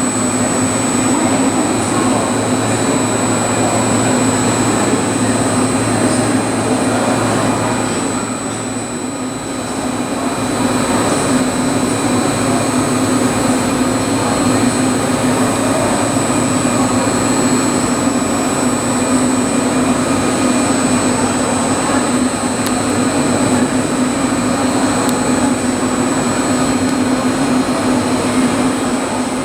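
Steady machine hum and rushing noise with a constant high whine, easing slightly about nine seconds in.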